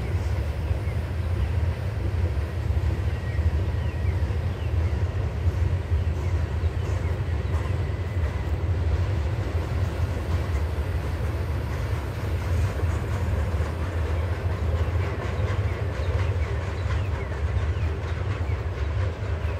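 Norfolk Southern freight train cars, covered hoppers and then gondolas, rolling past: a steady low rumble of steel wheels on the rails.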